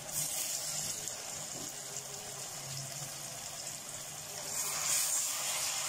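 Chopped onions frying in hot oil in a steel pot, a steady sizzle. It swells louder about five seconds in as a spoonful of tomato paste is worked into the oil.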